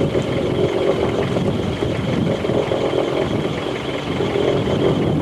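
A boat's engine running steadily, heard as an even rumble with a faint steady hum.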